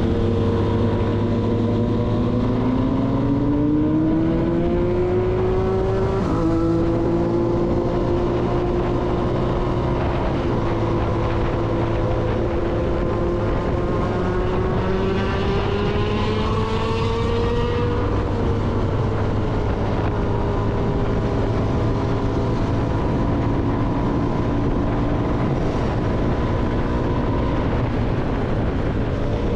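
CFMoto motorcycle engine under way, with wind rush, from the rider's position. The engine note climbs over the first few seconds, drops sharply about six seconds in, then holds steady. It rises again and eases off around eighteen seconds in, then runs steady.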